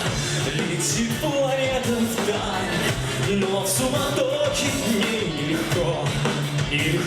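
Song performed live: a singing voice over steady instrumental accompaniment.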